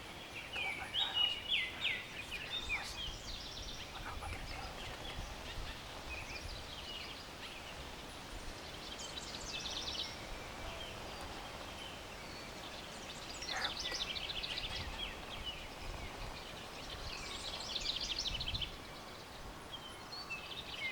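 Wild turkey gobblers gobbling: three quick rattling gobbles a few seconds apart in the second half, with shorter sweeping calls in the first seconds.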